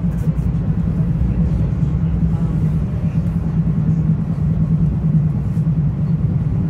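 Metro-North commuter train running at speed, heard from inside the passenger car: a steady rumble of wheels on track with a constant low hum.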